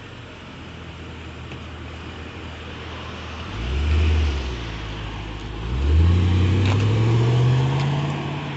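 A car engine running low, revved once briefly about three and a half seconds in, then accelerating hard with its pitch rising steadily for about two seconds as the car pulls away.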